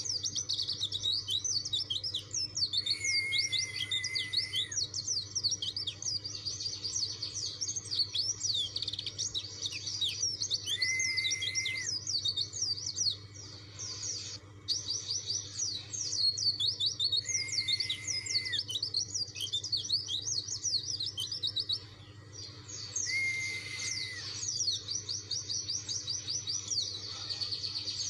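White-eye (pleci dakun) singing a long, fast, chattering song of quick up-and-down chirps, broken four times by a lower held whistle lasting about a second, with a couple of short pauses. It is the insistent rival-challenging song that is meant to make other white-eyes answer.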